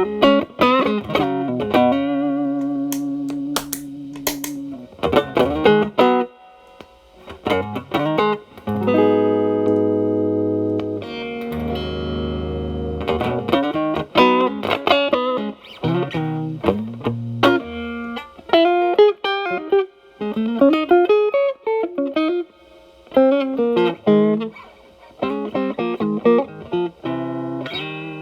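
Telecaster electric guitar played through a Xotic BB overdrive pedal with its gain at 8, into a Marshall Valvestate amp's clean channel. A few held chords ring out between quick single-note lines.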